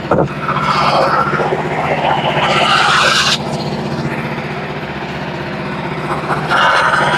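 Frontier OS27 portable bandsaw mill running, its engine droning steadily, with a louder hissing noise over it twice: once for about three seconds near the start and again near the end.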